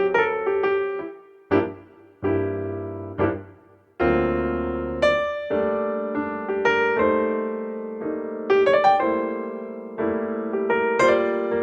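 Background piano music: slow, gentle notes and chords, each ringing and fading, with a sparse, halting passage in the first few seconds before fuller chords resume.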